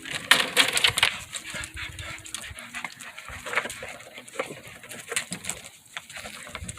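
A pet dog playing with a ball: many irregular light clicks and knocks, and a faint whine lasting about a second, starting about a second and a half in.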